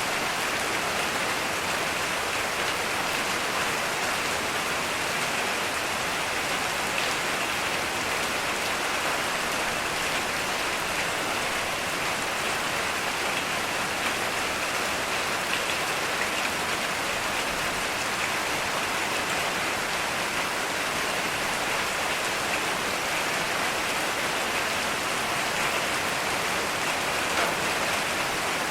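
Heavy, steady rain falling, a dense even patter with no thunder.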